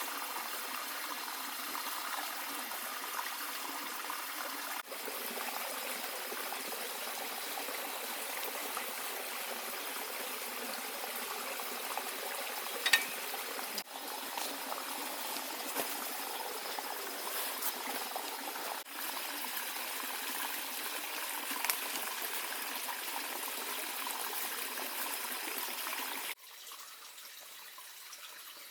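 Water trickling and flowing steadily in a small forest stream. It drops out briefly a few times, then carries on quieter from about 26 seconds in.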